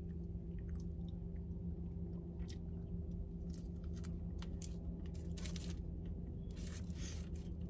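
A woman biting and chewing a chicken biscuit close to the microphone: small scattered clicking mouth sounds, over a steady low hum.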